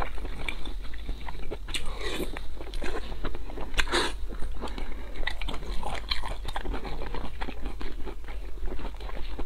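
Close-miked chewing of soft braised pork belly: a string of wet mouth clicks and smacks, with a louder one about four seconds in.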